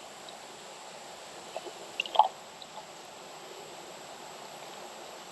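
Water being poured into the pump of a tankless water heater to prime it, a steady trickling, with a few sharp clicks about two seconds in.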